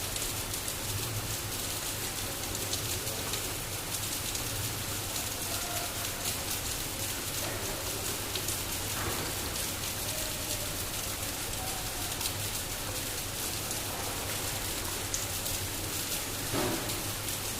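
Water spraying onto a bike during washing: a steady hiss of water hitting its surfaces, with one short knock near the end.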